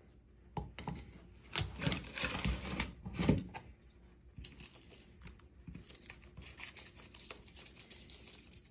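Moluccan cockatoo shredding dried rose leaves with its beak: dry crackling and tearing, densest in the first few seconds, then lighter scattered crackles.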